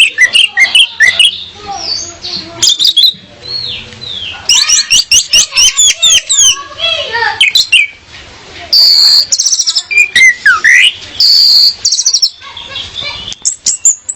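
Orange-headed thrush (anis merah) song: a loud, busy run of varied chirps, rapid trilled note series and sweeping whistles, with a short lull about halfway through.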